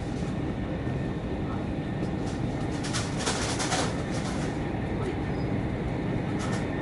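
Cabin running noise of a CRH5 high-speed train at speed: a steady low rumble, with a brief hiss about three seconds in.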